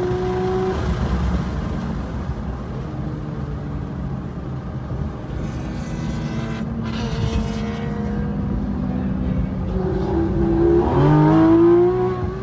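Porsche 911 GT3 RS's naturally aspirated flat-six engine heard from inside the car on track. It is at high revs at first, drops through the gears while slowing, then revs up sharply as it accelerates again near the end.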